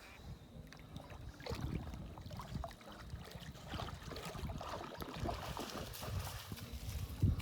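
Footsteps of several hikers walking on a trail: irregular crunching steps with soft low thuds.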